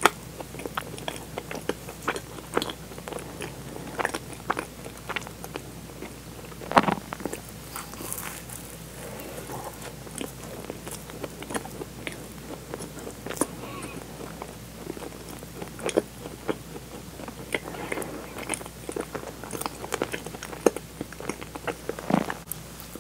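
Close-miked chewing and biting of a soft, sugar-dusted donut filled with strawberry cream and bean paste: moist mouth sounds with many small clicks and crackles, a sharper click about seven seconds in.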